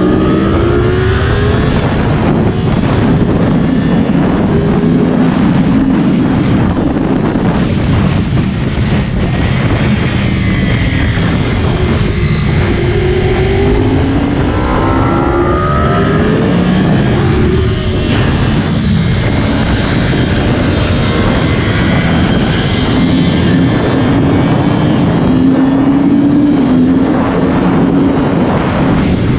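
Yamaha R1's inline-four engine at speed on a race track, its pitch climbing hard through the gears and dropping back again and again as the rider accelerates, shifts and brakes for corners.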